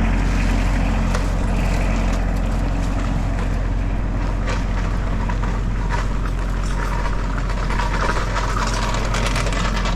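Tractor engine running steadily, with metallic rattling and scraping on top that gets busier over the last few seconds: chain-link fence and posts being dragged.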